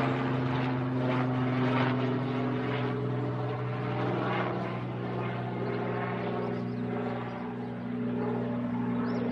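Battery-powered toy helicopter running, its rotor spinning with a steady whirring hum that holds level throughout.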